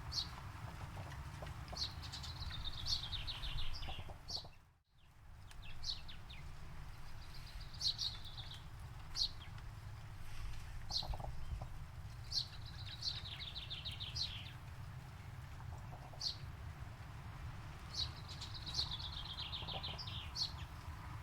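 Songbird singing: a phrase of rapid high notes sliding down in pitch, about two seconds long, repeats every few seconds, with short single chirps between, over a steady low rumble. The sound drops out briefly about five seconds in.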